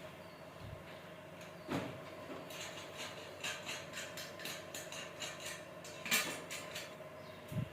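Scattered light clicks and knocks of hard objects being handled, with louder knocks about two seconds in, about six seconds in and near the end, over a steady faint hum.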